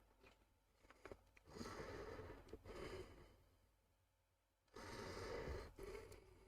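Two long, soft breaths out, each lasting about a second and a half, after a few faint clicks in the first second.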